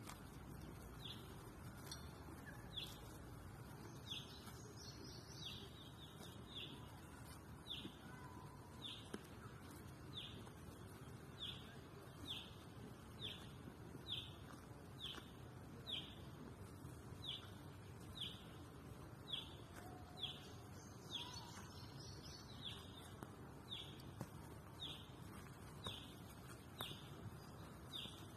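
A bird repeating one short, high, falling call note at an even pace of a little more than one a second, with a few higher chirps from another bird now and then over a faint steady background hiss.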